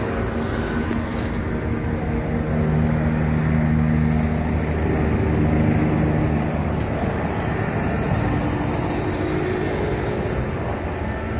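A steady engine drone with a low hum over a constant noise bed, swelling slightly in the middle.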